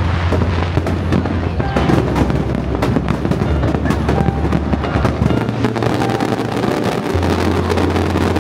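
Dense barrage of aerial firework shells bursting: many bangs packed close together in a continuous, rapid string, as in the finale of a large display.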